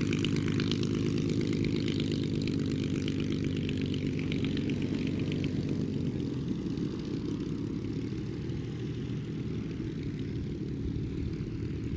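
Spitfire Mk VIII's Rolls-Royce Merlin V12 engine running steadily in flight, its sound slowly fading as the aircraft moves away.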